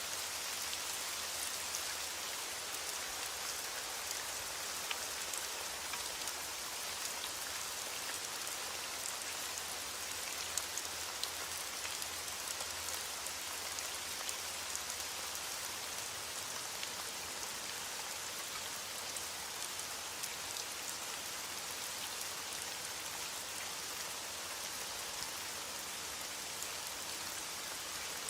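Steady rain falling, an even hiss with scattered sharper drop ticks standing out.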